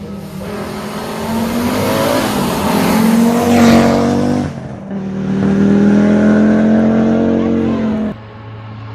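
Rally car engine at full throttle as the car comes past on a closed stage, growing louder to a peak. A short lift about four and a half seconds in, then it pulls hard again with the pitch rising, before the sound cuts off abruptly.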